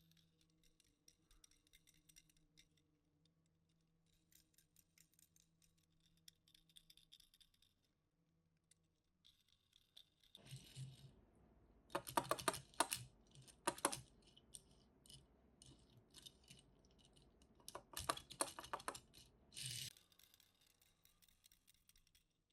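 Tomica die-cast toy cars and their packaging being handled: faint scattered clicks at first, then from about halfway a run of sharp clicking and rattling in two busy clusters.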